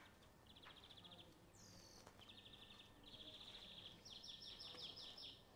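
Faint birdsong: a small bird singing short, rapid trills several times, then a run of quick falling notes near the end.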